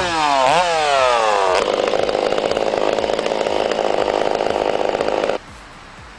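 Chainsaw engine revving, its pitch swinging up and down, then holding a steady pitch from about one and a half seconds in. It cuts off suddenly near the end, leaving a faint steady hiss.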